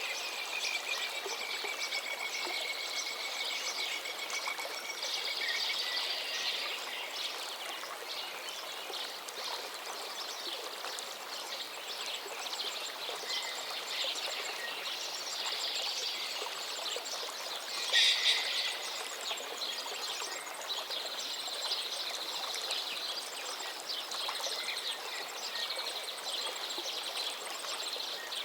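Several songbirds singing in overlapping phrases and trills over the steady rush of a gently flowing forest stream. Near the start one bird holds a long, slightly falling whistle, and about two-thirds through a short, loud burst of song stands out.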